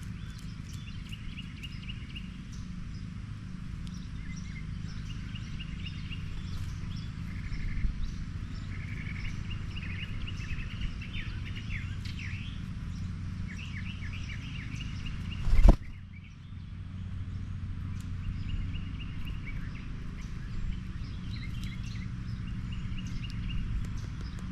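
Small birds chirping in short, repeated trilled phrases over a steady low hum, with one sharp knock about two-thirds of the way through.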